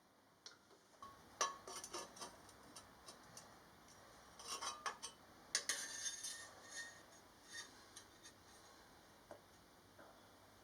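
Faint, scattered metallic clinks and taps of metal parts or tools being handled, a few with a brief ring, bunched about a second and a half in and again around five seconds in.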